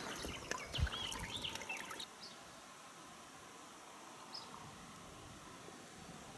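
Small birds chirping in short calls over a scatter of light clicks and knocks. After about two seconds the sound drops to a faint steady hiss of outdoor background, with one more short chirp partway through.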